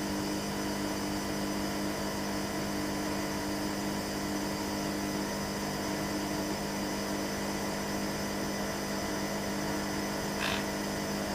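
Hoover Nextra HNWL7146 washer dryer running with a steady motor hum.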